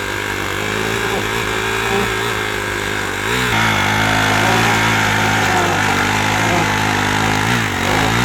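Dirt bike engine running, its pitch rising and falling as it is revved, with a change in engine speed about three and a half seconds in.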